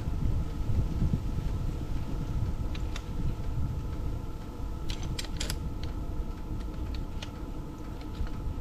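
Gusty wind rumbling on the microphone, with a faint steady hum beneath and a few light clicks about three and five seconds in.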